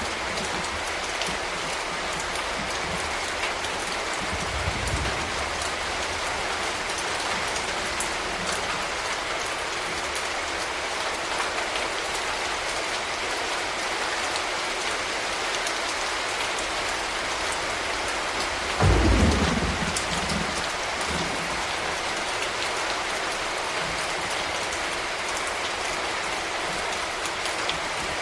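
Steady rain falling. A sudden low rumble of thunder comes about two-thirds of the way through, the loudest moment, and fades over a couple of seconds.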